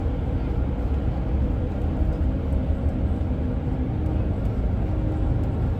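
Steady engine and road rumble of a moving bus, with a faint engine hum and occasional light rattles.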